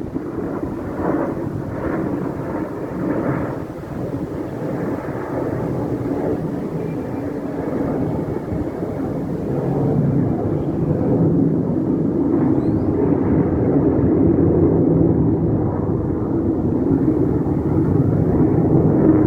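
Fixed-wing aircraft flying over, a steady engine drone that grows louder about halfway through.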